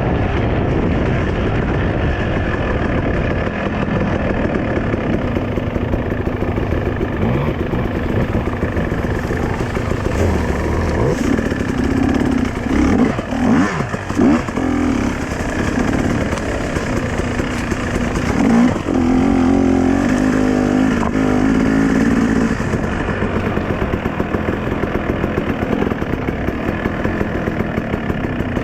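Dirt bike engine running, revved several times in quick blips around the middle, then held at a steadier pitch before settling back.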